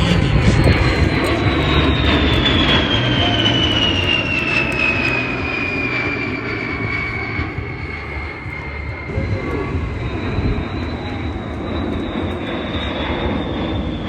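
Aircraft engines running loud as a plane passes overhead, with a deep rumble and a high whine that falls steadily in pitch over the first six seconds. A second high whine holds, then sinks slowly near the end.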